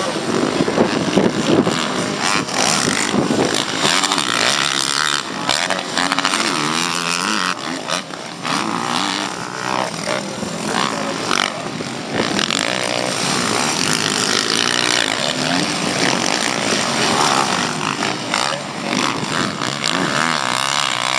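Motocross bikes racing, their engines revving up and down, the pitch rising and falling over and over.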